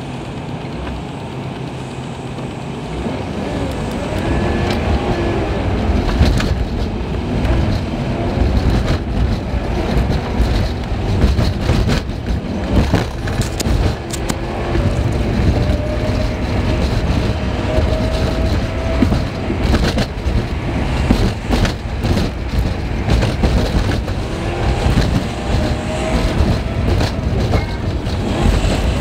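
Car engine and road noise from a dash cam inside the car, played back at three times normal speed: a dense low rumble with many short knocks and rattles, and the engine's pitch quickly rising and falling.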